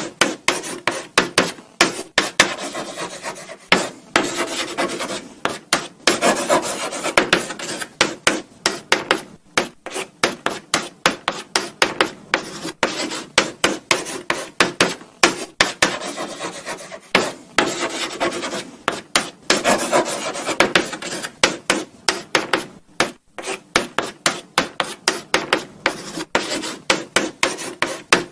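Chalk writing on a blackboard: a quick run of short dry scratching strokes, several a second, broken by brief pauses between words.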